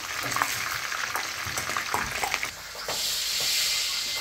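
Chicken pieces frying in hot oil in a stainless steel pot, sizzling and crackling, with clicks of a slotted metal spoon turning them. About three seconds in, after a brief dip, a steadier, higher hiss takes over.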